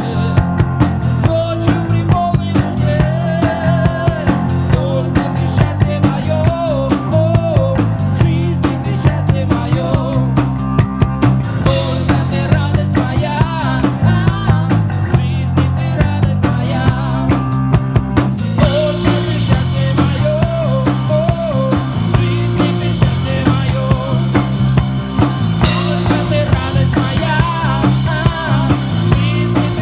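Live rock band playing an instrumental passage: drums and bass keep a steady beat under a guitar lead line with bending notes.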